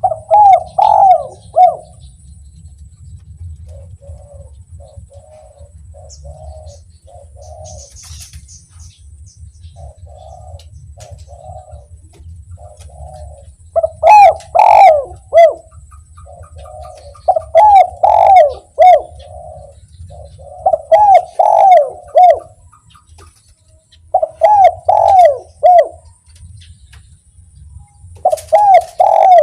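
Spotted dove (derkuku) cooing in its 'kuk 1' song: loud phrases of several coos, repeated six times, with a quieter, softer run of coos in the long gap between the first and second phrases. A faint low rumble sits underneath throughout.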